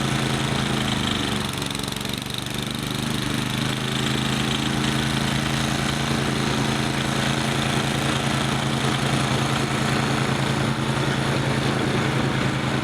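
Gasoline snowblower engine running steadily, with a slight dip in level about two seconds in.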